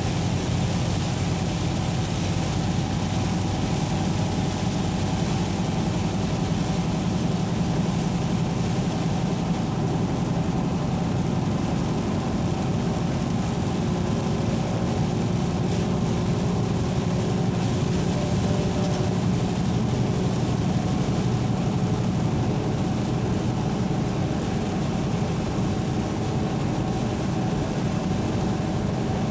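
Steady low mechanical rumble, like a running engine, with a faint hum over it and no change in pitch or level.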